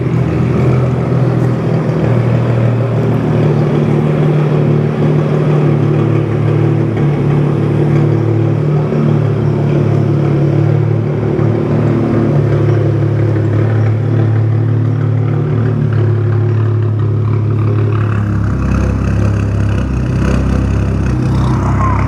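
Stage 2+ tuned BMW F10 535i's turbocharged straight-six running through a loud aftermarket exhaust, holding a steady drone while driving. Near the end the note drops deeper.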